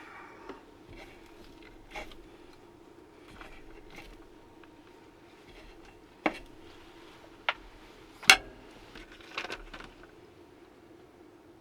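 A few sharp clicks and knocks of tableware being handled, the loudest about eight seconds in, over a steady low hum.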